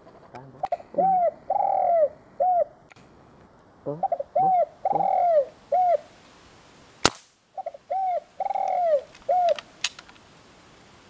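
Spotted dove cooing in three repeated phrases, each a couple of short notes, one long drawn note and a short closing note. A single sharp click sounds about seven seconds in.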